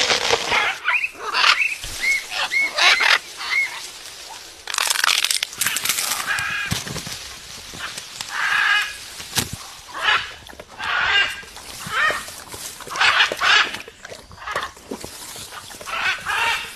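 Birds squawking and calling over and over: a string of short, harsh squawks, with a few short whistled notes that rise and fall in pitch near the start.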